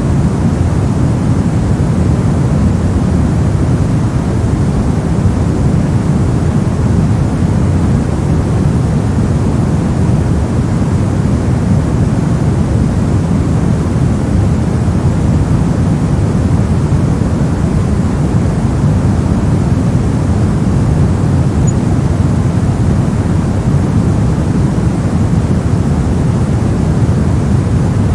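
Steady synthetic noise, heaviest in the low end and thinning toward the highs, constant in level with no changes or breaks.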